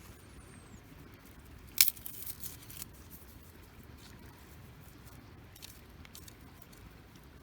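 Fire-lighting at a campfire: one sharp, hissing strike about two seconds in, trailing into about a second of crackling, with a few faint ticks later.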